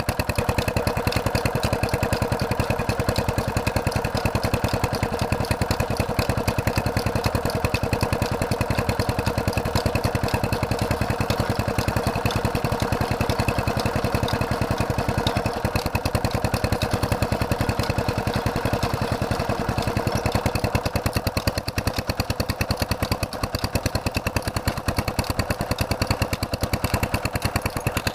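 Diesel engine of a tube well water pump running steadily, with an even, rapid firing rhythm.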